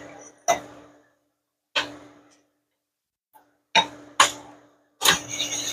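A handful of sharp metallic clacks, irregularly spaced, as a connecting rod with its piston still attached is knocked into place on a rod honing machine. About five seconds in, the hone starts, a steady rough grinding as the stone works the rod's big-end bore.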